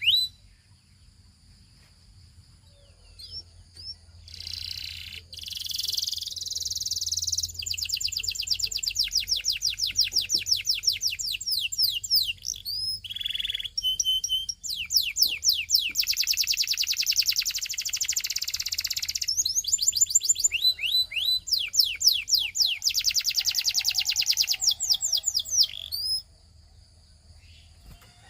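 Canary singing: long runs of fast trills made of rapidly repeated, downward-sliding high notes, with rasping bursts a few seconds in and a few short pauses. The song starts a few seconds in and stops near the end, over a faint low hum.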